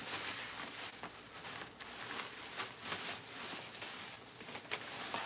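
Light rustling and crinkling with small irregular crackles: hands rummaging through a takeout bag or packaging, searching for a napkin.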